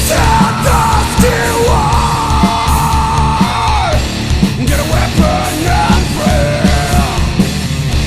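Metalcore band playing a loud instrumental passage: fast, driving kick drums under distorted guitars, with a melodic line holding long notes on top.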